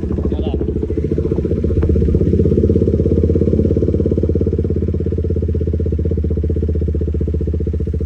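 KTM motorcycle with an aftermarket exhaust running steadily, a fast even pulsing that swells a little about two seconds in and then holds.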